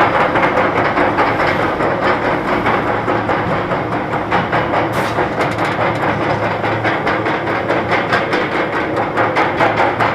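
Wooden roller coaster train being hauled up the lift hill by its chain: a rapid, even clatter of anti-rollback clicks over a steady mechanical hum.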